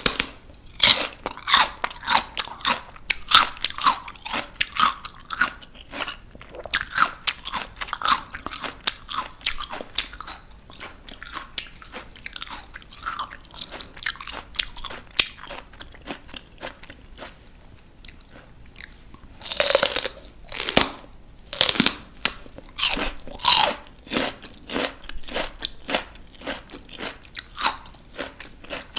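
Close-up crunching and chewing of raw vegetables: rapid crisp crunches for the first ten seconds or so, softer chewing after that, then several louder crunching bites about two-thirds of the way in.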